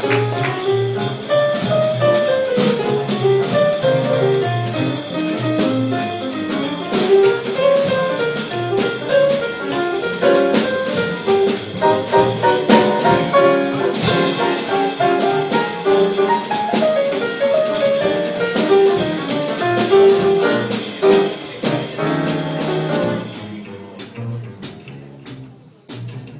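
A small jazz band plays an instrumental solo passage of a medium-tempo blues, a melodic line running over bass and drum kit with cymbal strokes. Near the end the band drops to a quieter, sparser stretch.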